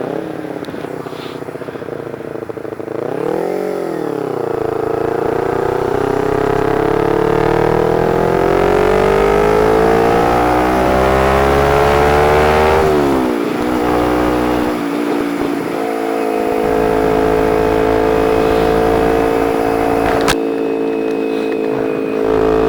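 Motorcycle engine under way: a quick blip of revs, then a long rise in pitch as it accelerates, a sudden drop about 13 seconds in, and steady running after that, with wind rumble. A single sharp click comes about 20 seconds in.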